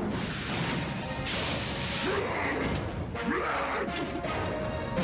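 Cartoon action sound effects over background music: a crashing, rushing noise that swells about a second in, with a few short sweeping glides, as a giant creature is summoned.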